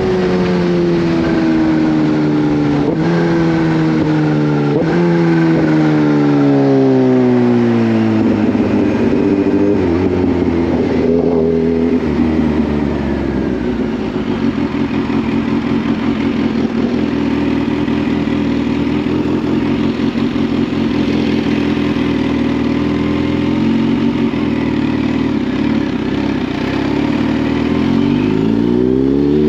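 Kawasaki Z H2's supercharged inline-four motorcycle engine. It winds down over the first ten seconds with two short rises in revs along the way, runs at low, steady revs for about fifteen seconds, then revs rise again near the end as it accelerates.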